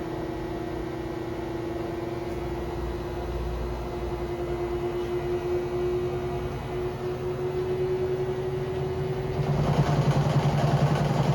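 Samsung washing machine in its spin cycle with a newly replaced drum spider: a steady motor whine that climbs slightly as the drum speeds up. About three-quarters of the way through, the sound changes and gets louder, with a deeper hum and more rush as the spin moves to a higher speed.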